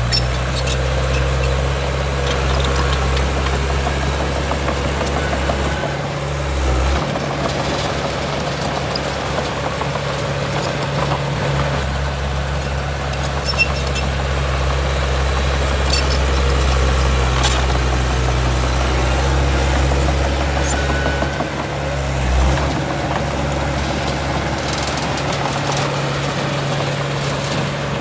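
Heavy diesel engine running steadily, its deep drone dropping away briefly twice, about six and twenty-two seconds in.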